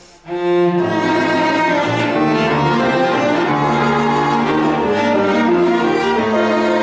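Piano quartet of piano, violin, viola and cello playing classical chamber music. The ensemble comes in suddenly and loudly about a third of a second in, with held bowed-string notes over the piano.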